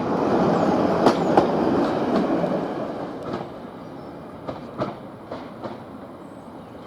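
Train running on the rails, with clicks of the wheels over rail joints; the rumble fades away after about two and a half seconds while fainter clicks carry on.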